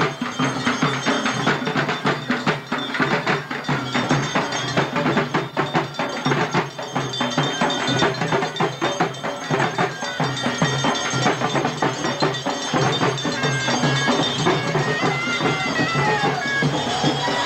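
Traditional Tamil procession music: fast, dense drumming with many rapid strokes, and a high reed pipe melody joining in about two-thirds of the way through.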